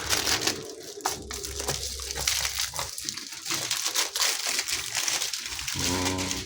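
Packaging crinkling and rustling as it is handled and opened, a dense run of many small crackles.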